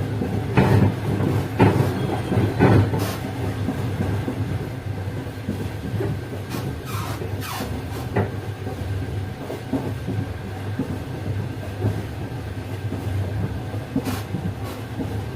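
Train running on the track: a steady low rumble with wheels clattering over rail joints, irregular sharp clacks that are loudest and most frequent in the first three seconds.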